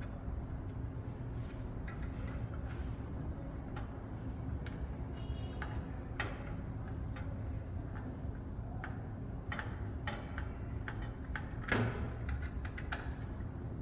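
Scattered small clicks and taps from handling a CPU heat sink and its screws during computer reassembly, irregularly spaced, with one louder click near the end, over a steady low hum.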